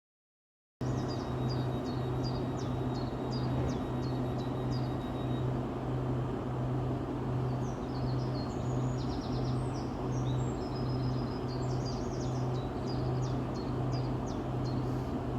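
Low electric hum from a Siemens Desiro HC electric multiple unit, beating in level a little over once a second, with birds chirping high above it. It starts abruptly just under a second in.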